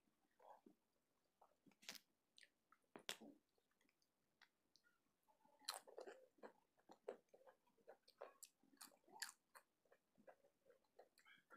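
Faint, irregular mouth clicks and wet chewing of a mouthful of khichuri eaten by hand.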